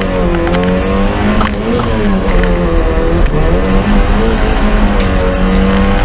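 Fiat Cinquecento Sporting's 1.1-litre four-cylinder engine heard from inside the cabin at racing pace, its pitch dipping and climbing again several times as the driver lifts off, shifts and gets back on the throttle. A few sharp clicks and knocks come through over the engine.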